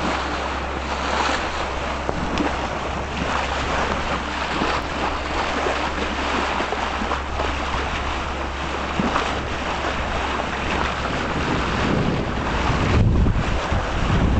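Sea water rushing along a sailing yacht's hull, with wind buffeting the microphone; the wind gets louder near the end.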